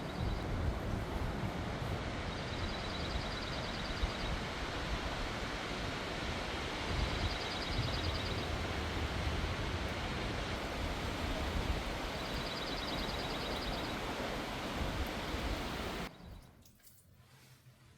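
Steady outdoor wind noise with gusts buffeting the microphone, broken three times by a short, rapid high trill about five seconds apart. It cuts off suddenly near the end to a much quieter room tone.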